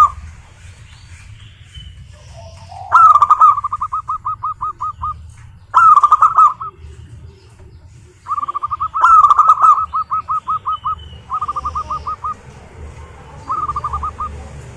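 Zebra doves (perkutut) singing: about five phrases, each a quick run of staccato cooing notes that opens with a stronger note. One phrase near the middle runs longer than the rest.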